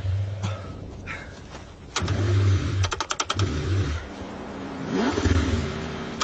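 Car engine being cranked over in the cold, the starter turning in several bursts of about a second each, with a quick run of sharp clicks about three seconds in.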